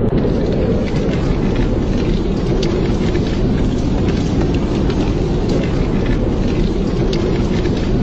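Fire crackling in a fireplace: scattered sharp pops and snaps over a steady low rumble.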